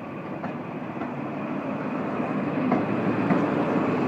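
HST diesel train approaching, its engine and wheel noise growing steadily louder, with a few faint clicks of wheels over the rail joints.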